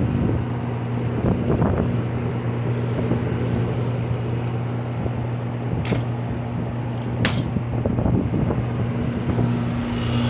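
Outdoor air-conditioning condensing units running in cooling mode: a steady compressor hum under the whoosh of the condenser fans. Two brief sharp ticks come about six and seven seconds in.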